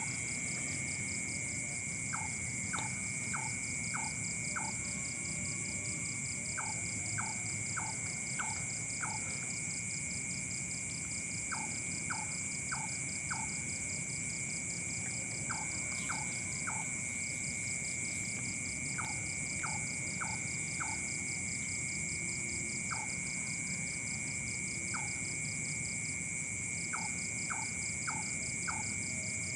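Night insect chorus: steady high-pitched shrilling at several pitches, one of them pulsing rapidly. Over it, an animal's short call notes come in quick runs of four or five, repeating every few seconds.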